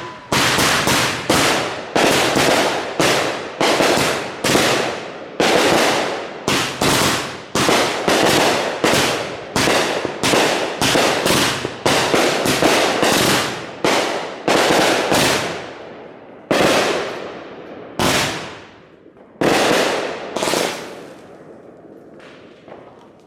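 Consumer aerial fireworks firing a rapid string of loud booming shots, about two a second, each trailing off in a fading rumble. After about 16 seconds the shots thin out to a few spaced bangs and stop near the end.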